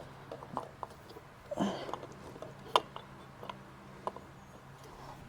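Light clicks, taps and a brief rustle of small metal parts being handled and fitted by hand, over a faint steady low hum.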